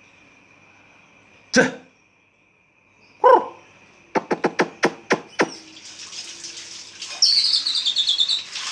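White-rumped shama (murai batu) calling: two short, low, falling notes, then a quick run of about eight sharp clicking notes, then a rapid, high, descending twittering trill over a rustling hiss near the end.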